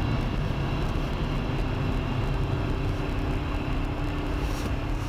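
Steady vehicle engine and road noise with a constant low hum.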